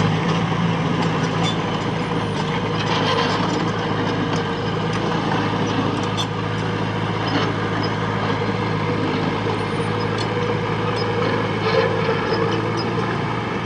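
Diesel engine of heavy earthmoving machinery running steadily at a constant speed, with scattered short metallic clicks and knocks over it.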